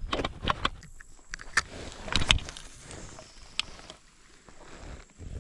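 A few irregular knocks and clicks with rustling: handling noises in a kayak, with the loudest knocks about a second and two seconds in.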